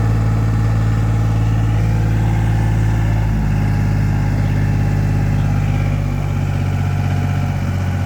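Powertrac tractor's diesel engine running steadily, its pitch stepping up slightly about three seconds in and shifting again about six seconds in.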